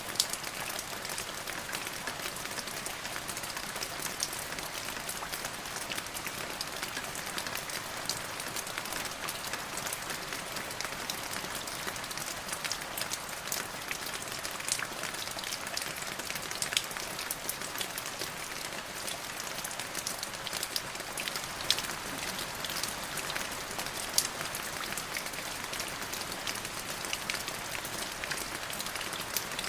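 Steady rain falling: an even hiss dotted with many small drop ticks, with a few louder single drops standing out.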